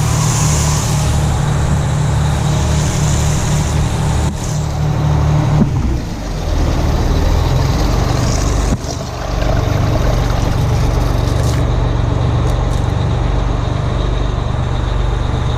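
Two-stroke Detroit Diesel engine of a 1980 Howe fire truck running steadily, its note dropping about six seconds in. A hiss over the engine fades out near the end.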